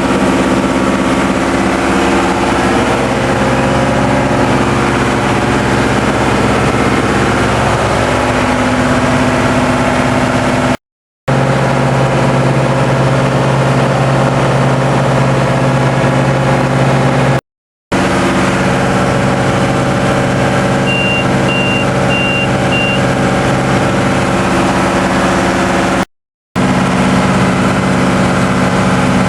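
TDME 490 four-cylinder marine diesel running steadily under way, a constant engine drone over a haze of noise. The sound breaks off briefly three times, and the engine's pitch shifts slightly from one stretch to the next.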